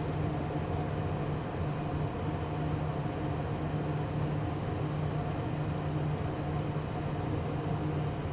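Steady cockpit noise of a Beechcraft Premier I light jet in the landing pattern with its gear down: the even rush of its twin turbofan engines and airflow, with a low hum and a few held tones.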